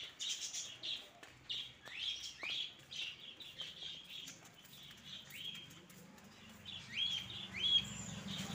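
Small birds chirping and calling: a string of short high chirps and quick rising whistled notes, the two loudest near the end.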